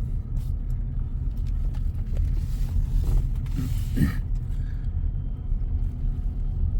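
Low steady rumble of an idling car, heard from inside the cabin, with a brief creak about four seconds in.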